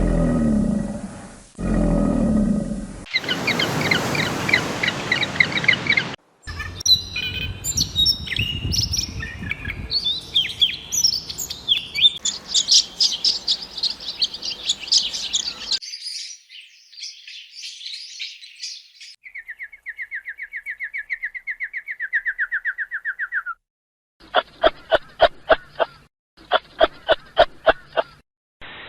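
A string of separate animal calls cut one after another. Two short low roars, like a big cat's, open it. Varied bird chirps and trills follow, including a long falling trill, and it ends with rapid repeated calls.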